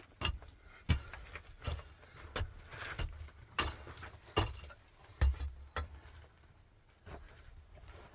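Irregular sharp knocks and clinks of hard objects being handled, about nine in the first six seconds, then fainter ones near the end.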